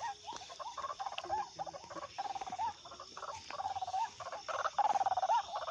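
White-breasted waterhen (ruak-ruak) calling: a run of rapid croaking grunts and longer nasal notes, several ending in a short up-and-down hook, repeated about every second and a half.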